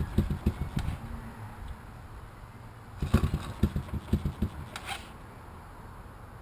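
A 1986 Honda TRX200SX quad's single-cylinder four-stroke engine being cranked to start. It gives two short bursts of uneven chugging pulses, one at the start and one about three seconds in, without catching.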